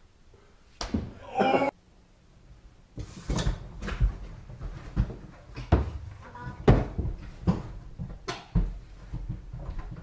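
A brief pitched vocal sound that cuts off abruptly, then from about three seconds in a run of irregular knocks and thumps, like things banging about in a small enclosed space.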